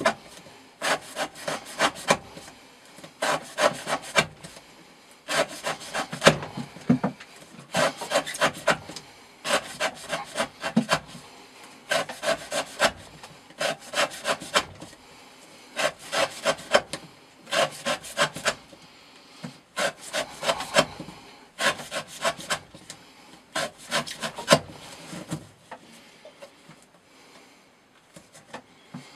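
Elmax-steel knife blade sawing through rope in quick clusters of short slicing strokes, a new cluster every second or two, fainter near the end: repeated cuts of a rope-cutting edge-retention test.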